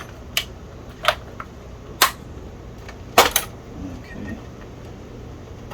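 Short, sharp clicks and knocks, about six of them, the loudest two about two and three seconds in, as the Commodore 128's plastic case is worked loose for opening.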